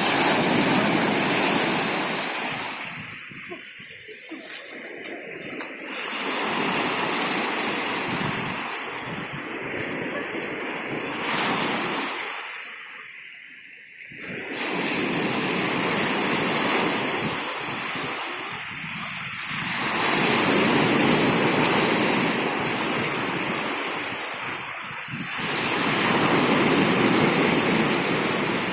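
Mediterranean sea waves washing in on the shore, a rushing surge that swells and falls back every few seconds.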